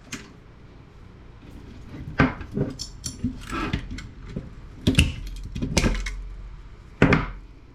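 Small metal and electronic parts from a CRT monitor being handled, clinking and clattering in a string of separate knocks, some with a brief metallic ring.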